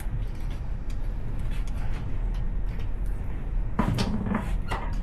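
A few sharp knocks and clicks of handling, clustered about four seconds in, over a steady low rumble.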